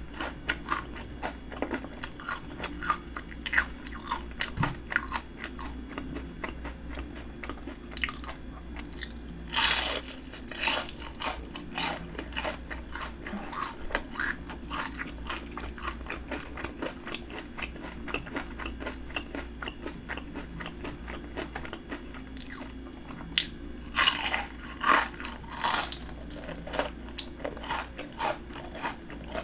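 Close-miked chewing of crispy breaded fried shrimp: a run of crunches and crackles as the batter breaks, with louder bites about ten seconds in and again near the end.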